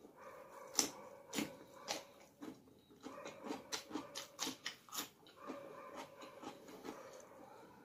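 Close-up mouth sounds of chewing chicken curry and rice eaten by hand: wet lip smacks and clicks in an irregular run, thickest about halfway through.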